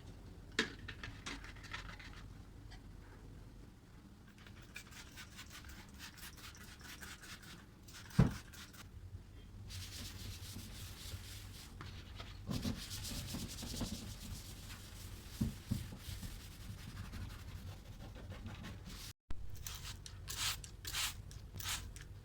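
Kitchen cabinet being scrubbed and wiped by hand with a cleaning cloth: runs of quick rubbing strokes and stretches of steady scrubbing. One sharp knock comes about eight seconds in.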